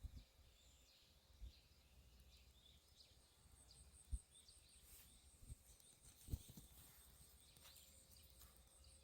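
Near silence: faint outdoor ambience with scattered faint high bird chirps and a steady faint high-pitched tone. A few soft low thumps come through, the loudest about four and six seconds in.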